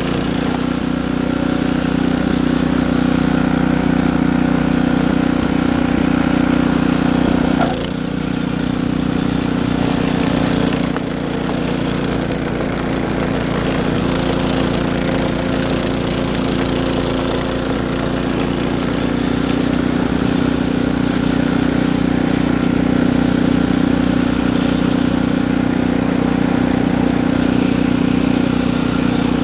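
Snowblower engine running steadily, with its note dipping briefly about eight seconds in.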